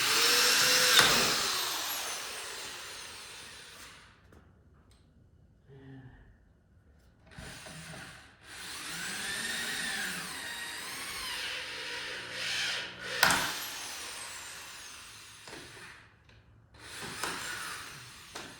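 Power drill driving concrete screws into a concrete slab, running in three bursts with its motor whine rising and falling in pitch: a few seconds at the start, a longer run in the middle and a short one near the end. A sharp click sounds about a second in and again after the middle run.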